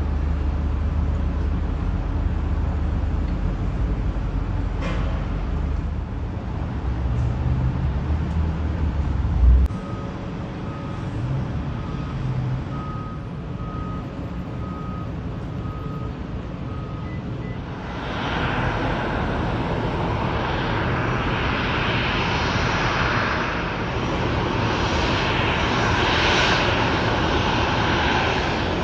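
Aircraft engine noise at an airport: a low rumble that ends with a thump about ten seconds in, a faint repeating beep for several seconds, then from about two-thirds of the way through a loud, steady rushing noise from jet airliner engines that holds to the end.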